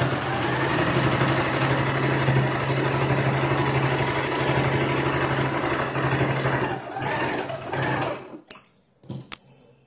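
Sewing machine running at an even speed, stitching a seam in a blouse piece, with a brief slowdown just before seven seconds in. It stops about eight seconds in, followed by a few light clicks.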